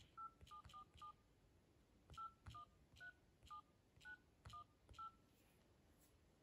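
Faint dial-pad keypad tones from a smartphone as an eleven-digit number is tapped in: four quick two-tone beeps, a pause of about a second, then seven more beeps about half a second apart, each with a light tap of a finger on the screen.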